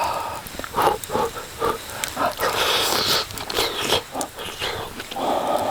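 A person chewing and munching food close to the microphone, a string of short irregular wet mouth sounds.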